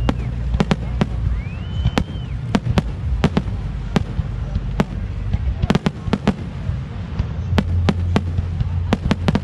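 Fireworks display: a steady string of sharp bangs and crackles from aerial shells bursting, several in quick clusters, over a low rumble. About two seconds in, a whistling rocket rises in pitch, holds, then stops.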